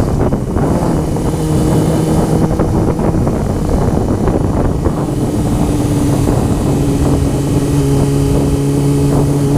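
Honda CBR motorcycle engine running at a steady cruise, its hum nearly buried under heavy wind buffeting on the microphone.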